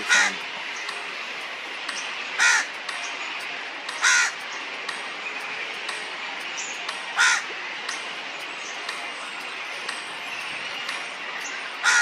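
A bird calling: five short, loud calls at uneven intervals, over a steady high-pitched background hiss.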